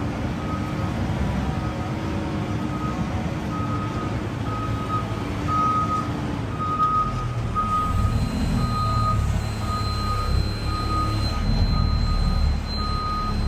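Garbage truck's reversing beeper sounding a steady string of evenly spaced beeps at one pitch while the truck backs up, over the diesel engine's rumble, which grows heavier about halfway through.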